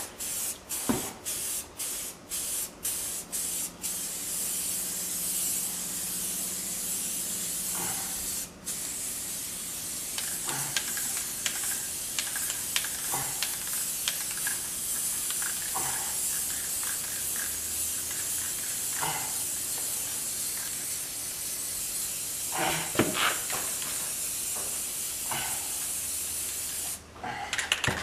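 Aerosol spray-paint can spraying: several short bursts, then a long continuous hiss with one brief break, stopping shortly before the end. A few faint knocks and clicks sound along the way.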